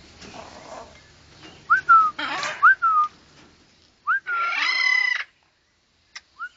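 Parrots calling: short whistled notes that rise and then drop, repeated about four times, with a harsh squawk about two seconds in and a longer raspy call around four seconds in.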